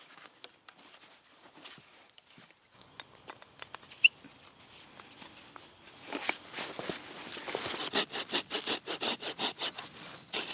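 A single sharp click about four seconds in, then from about six seconds in a run of quick rasping strokes, several a second and growing louder, of a small hand saw cutting wood.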